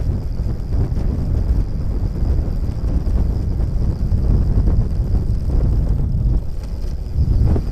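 Wind buffeting the microphone: a loud, uneven low rumble, with a faint steady high hum in the background.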